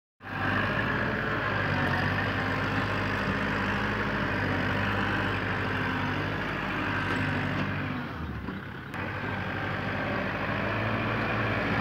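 Kubota tractor's diesel engine running steadily, dropping off briefly about eight seconds in and then picking up again.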